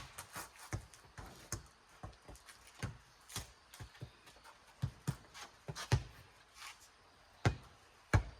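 A four square rally: a rubber playground ball bouncing and being slapped back and forth, with shoe scuffs and steps. Irregular knocks and thumps, a handful of them louder.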